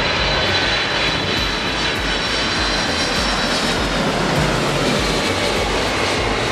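Jet airliner's engines at close range: a loud, steady rush of noise with a high whine over it.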